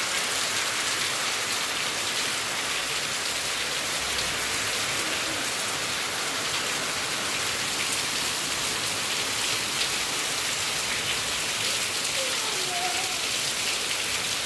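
Steady rain falling and pattering on surfaces, a dense even hiss that holds level throughout. A faint short gliding call is heard near the end.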